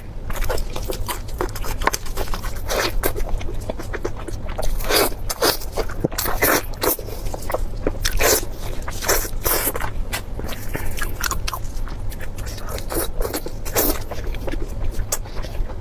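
Close-miked eating: crisp food crunching between the teeth in a steady run of chews, about one a second, over a low steady hum.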